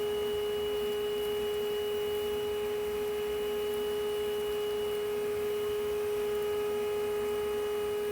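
A bee vacuum built from a shop vac runs with a steady, high, even motor hum while it gently sucks up a honeybee swarm.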